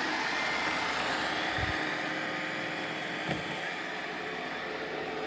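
iRobot Roomba robot vacuums running: a steady whirr of vacuum motor and brushes, with two soft thumps about one and a half and three and a quarter seconds in.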